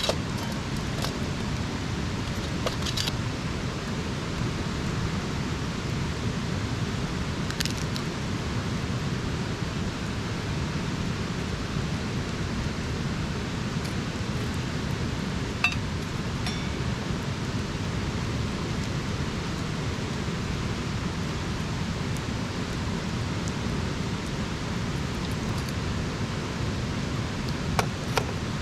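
Wood campfire burning, a steady hiss broken by a handful of faint, sharp crackles and pops.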